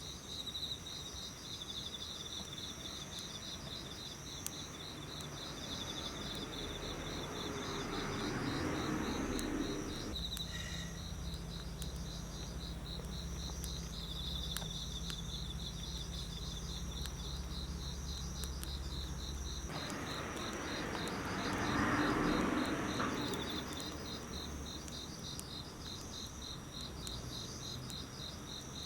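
Autumn crickets chirping steadily in quick, pulsed trills. Twice, about eight and twenty-two seconds in, a broad rushing noise swells up and fades over the chirping.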